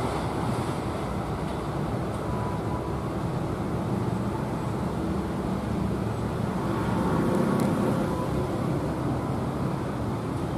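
Electric commuter train running along the tracks, a steady low rumble.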